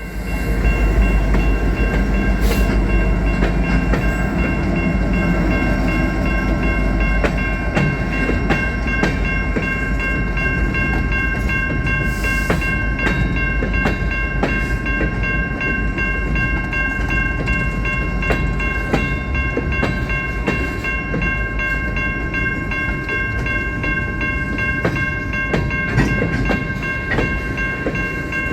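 Freight train rolling past with a low rumble, its wheels clicking irregularly over the rail joints. Several steady high-pitched tones ring throughout.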